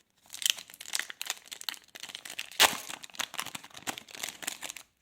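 Plastic wrapper of a trading card pack crinkling and tearing as the pack is opened by hand: a dense run of irregular crackles, with one loud sharp crack about two and a half seconds in.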